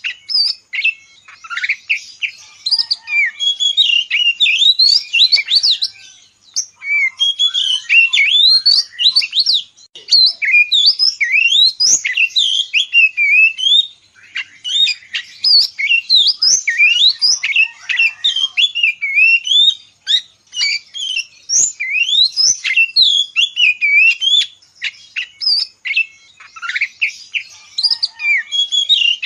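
Oriental magpie-robin (kacer) in full song: a fast, varied stream of loud whistled notes sweeping up and down, broken by a few short pauses.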